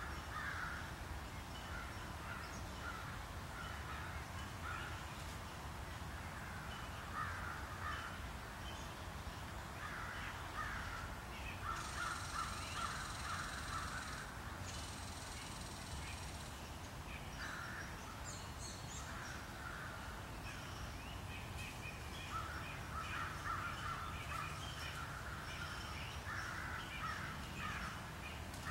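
Birds calling repeatedly, with a long high drone, broken once, from about twelve to sixteen seconds in, over a steady low rumble.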